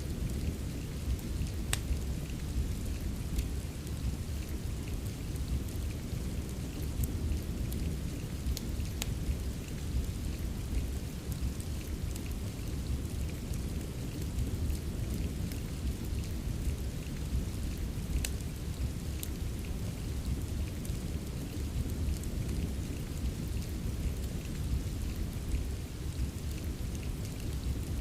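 Steady rain with an even low rumble, mixed with the scattered sharp pops of a crackling wood fire.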